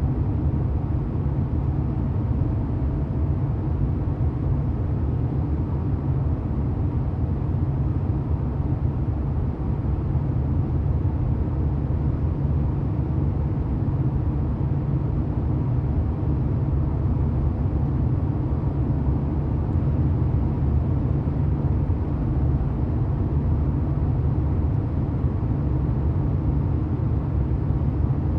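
1990 Porsche 911's air-cooled flat-six engine running at a steady speed: a deep, even rumble with no change in revs.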